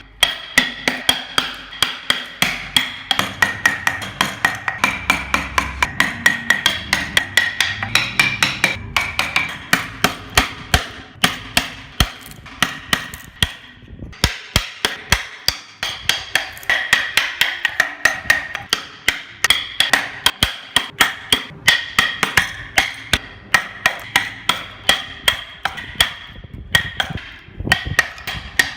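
Steady hammer blows driving a carving chisel into wood, about three strikes a second, each with a short metallic ring, and a brief pause about halfway through.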